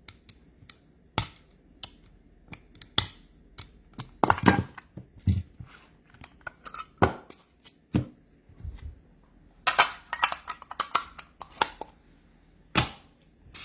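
Trading cards being handled on a table: a run of sharp clicks and taps at irregular spacing as cards are flipped, slid and set down, with brief rustles between.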